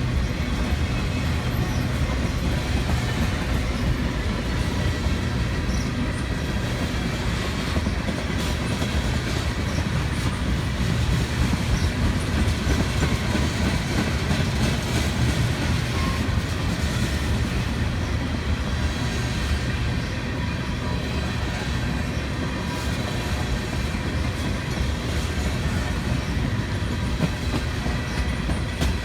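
Freight train rolling past, with a steady low rumble and the clickety-clack of railcar wheels over rail joints.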